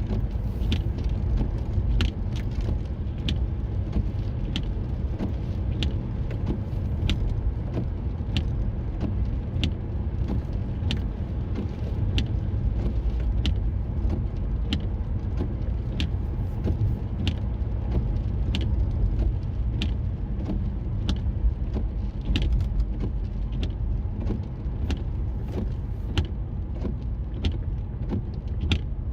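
A car driving, with a steady low road rumble and frequent sharp clicks or ticks, roughly one or two a second.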